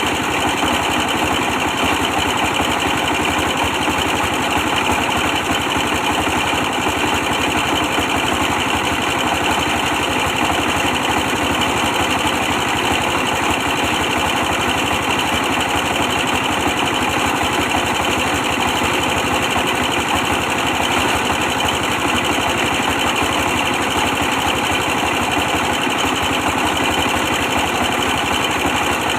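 A 24 hp stationary diesel engine running steadily at a constant speed while powering a brick press.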